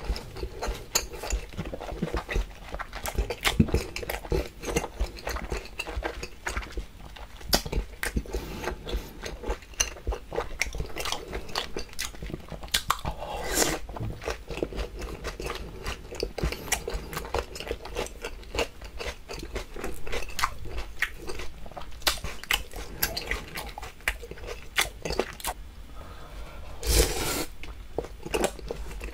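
Close-miked chewing of grilled steak and vegetables: a steady run of small clicks and smacks from the mouth, with two brief louder noisy sounds, one about halfway through and one near the end.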